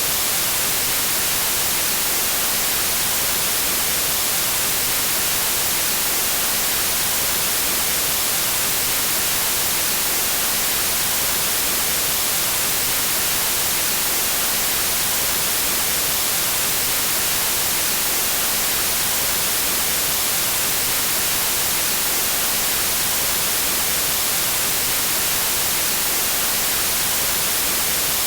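Pure white noise: a steady, unchanging hiss, brightest in the high frequencies.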